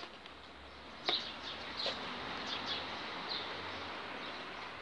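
Small birds chirping in short, separate calls, about one a second. Under them runs a steady rushing noise that gets louder about a second in.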